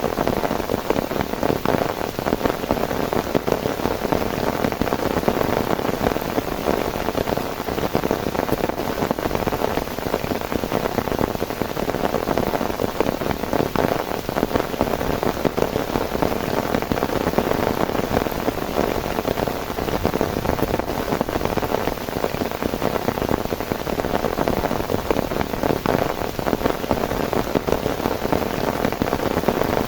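Heavy rain falling steadily, a dense unbroken patter of countless drops hitting a surface, with no lulls.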